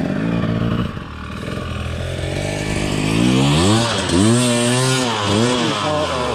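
Dirt bike engine running at low revs, then revved up and down several times in the second half, its pitch rising and falling with the throttle.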